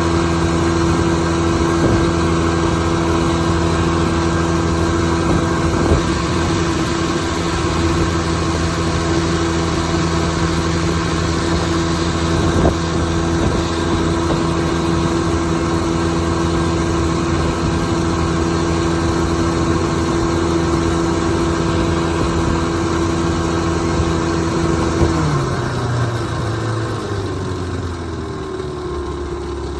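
Goodyear Sea-Bee 12 hp two-stroke outboard motor running steadily under way at a fixed throttle. About 25 seconds in, the throttle is pulled back and the engine speed falls to a low idle. The owner thinks a worn throttle cam keeps the carburettor butterfly from opening all the way.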